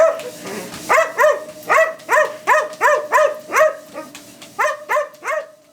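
A dog giving a rapid string of short, high yelping barks that rise and fall in pitch, about three a second, with a pause near the start and another about four seconds in, over a faint steady hum.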